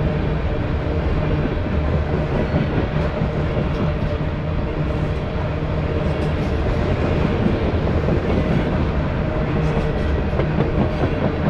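Freight train of open-top coal gondolas rolling past: a steady rumble of steel wheels on rail, with scattered light clicks.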